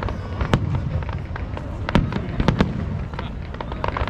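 Fireworks bursting: several sharp bangs, the loudest about half a second in and a quick cluster around two to two and a half seconds in, among smaller crackling pops over a continuous low rumble.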